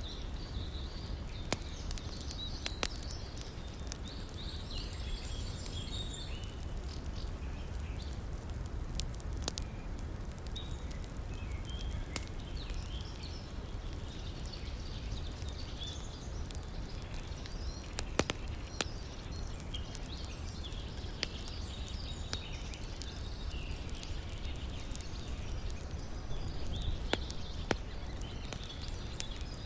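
Campfire crackling with scattered sharp pops over the steady rush of a flowing river, with birds chirping throughout.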